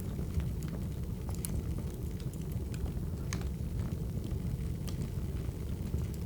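Crackling wood fire: a steady low rumble with irregular sharp pops and snaps scattered through it.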